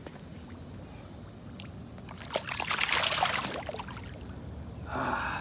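Water splashing and sloshing for about a second and a half, starting a little over two seconds in, with a shorter, softer splash near the end: a small channel catfish being let go back into the water.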